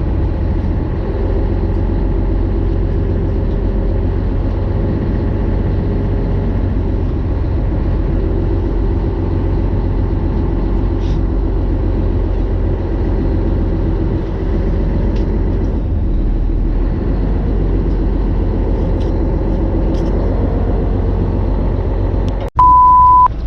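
An engine running steadily with a deep, even drone. Near the end it cuts out for an instant and is replaced by a short, loud, high-pitched beep.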